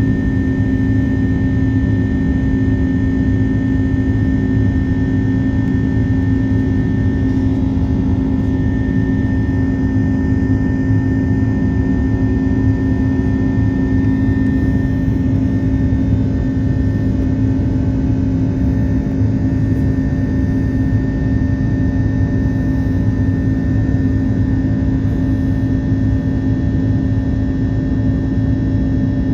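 Airbus A330-300 airliner heard from inside the passenger cabin: a steady drone of jet engines and airflow with an even hum, unchanging throughout.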